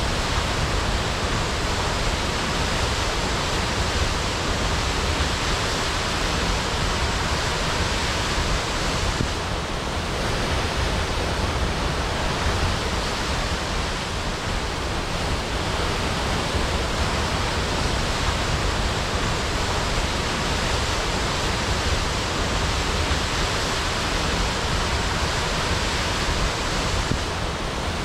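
Waterfall crashing: a steady, dense roar of falling water.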